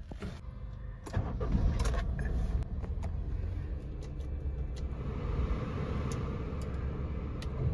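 Car engine started with the ignition key about a second in, then running at a steady idle. About five seconds in, the dashboard air-conditioning blower comes on with a steady whoosh over the idle.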